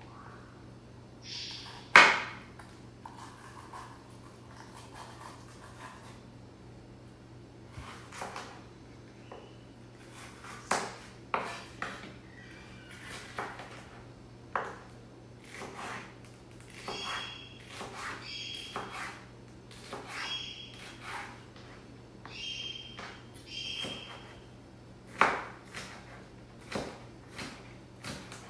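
Kitchen clatter: a series of clinks and knocks of utensils and dishes being handled, the sharpest about two seconds in, over a steady low hum.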